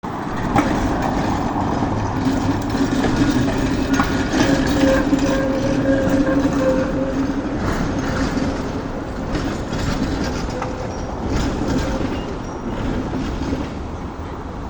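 A tram running over the rails through a street crossing: a steady hum from its motors that fades after about seven seconds, with irregular clacks of wheels over rail joints.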